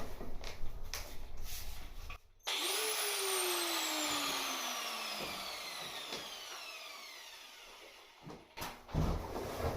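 An electric power tool's motor spinning down after being switched off: its whine starts about two and a half seconds in and falls steadily in pitch while fading over about five seconds. A few knocks and clicks come before it and again near the end.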